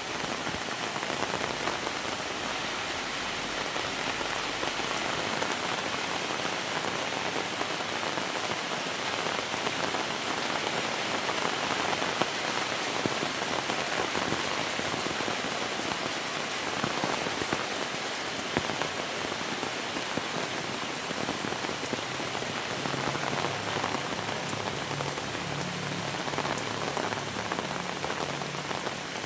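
Heavy rain falling steadily: a dense, even hiss of rain with many individual drops pattering close by.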